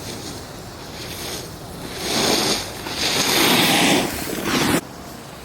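Skis scraping and hissing across packed snow through turns: three swells of scraping from about two seconds in, the last one cutting off suddenly.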